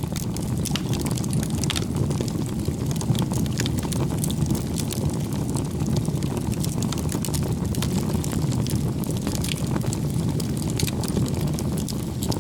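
Bonfire of firewood burning: a steady low rumble of flames with frequent sharp crackles and pops from the burning wood.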